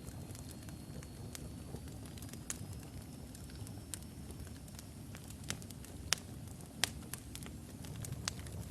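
Wood fire burning in a fireplace: a low steady rumble of flames with irregular sharp crackles and pops from the burning logs, two louder pops a little past the middle. A faint thin high whistle rises slightly through the first half.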